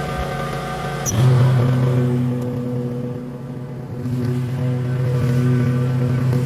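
Lawn mower engine running. About a second in, its note changes and grows louder. It eases off around the middle, then picks back up.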